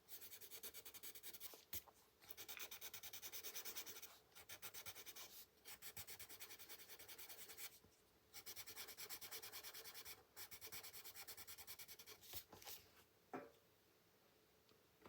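Colorless blender pencil rubbing quickly back and forth on paper to soften colored-pencil shading. It comes in runs of many short strokes a second, with brief pauses, and thins out to a few light scratches near the end.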